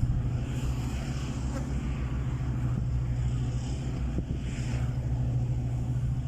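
Steady low engine hum, unchanging throughout.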